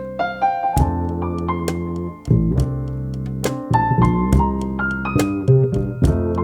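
Jazz trio playing: a keyboard carries a moving melodic line over held bass notes, with drums keeping time.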